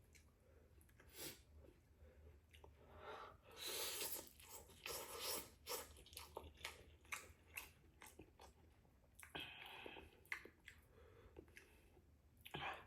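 A person chewing and eating spicy noodles, with many quick wet mouth clicks and a few louder, longer noisy bursts about 4 and 5 seconds in.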